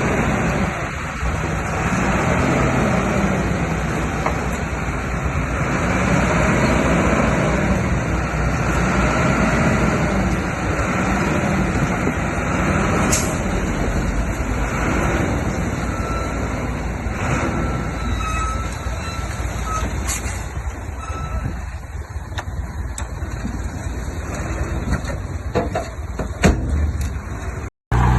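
Diesel engine of heavy earthmoving machinery working steadily, its note swelling and easing in a slow repeating pattern about every two seconds. The sound cuts out briefly just before the end.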